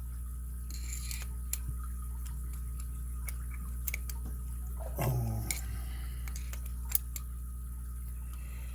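Scattered small metallic clicks and taps from handling a brass-cored padlock and its tools, over a steady low hum; the sharpest click comes about seven seconds in.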